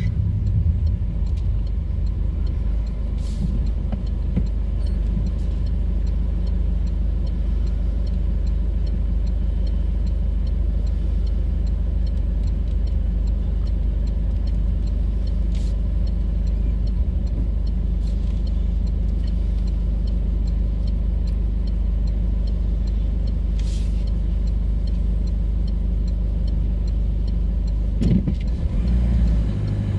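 Car engine idling, heard from inside the cabin as a steady low hum. About two seconds before the end the engine picks up as the car pulls away.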